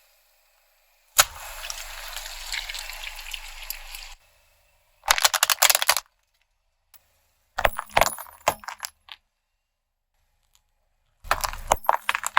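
Crunchy objects cracking and crumbling under a car tyre, in several short separate bursts: one sharp crack followed by about three seconds of crackling, then three shorter runs of cracks.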